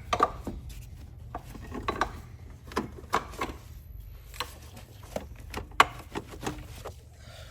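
Irregular clicks, knocks and rubbing from hands working on car parts and tools, with the sharpest knock about six seconds in, over a steady low hum.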